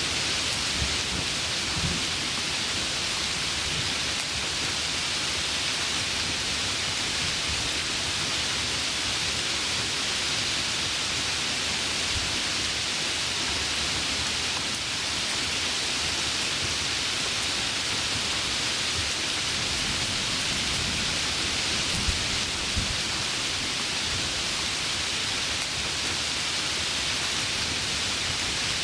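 Heavy rain pouring steadily in a thunderstorm, with low rumbling underneath. Two brief, louder taps come about three-quarters of the way through.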